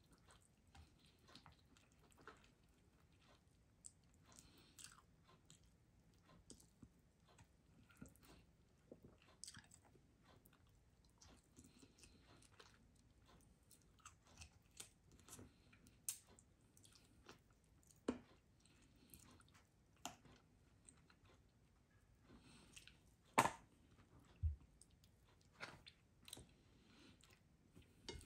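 Faint, close-miked chewing and wet mouth smacks from someone eating baked chicken and rice by hand, with scattered small clicks. A sharper click stands out about 23 seconds in.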